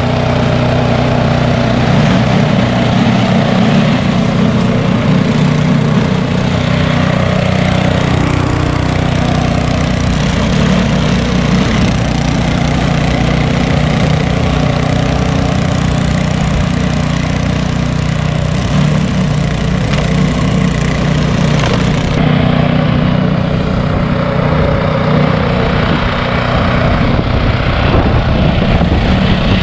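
Bobcat T595 compact track loader's diesel engine running steadily under load, with the SB200 snowblower attachment working. About 22 seconds in, the sound turns a little duller as the hiss in the upper range drops away.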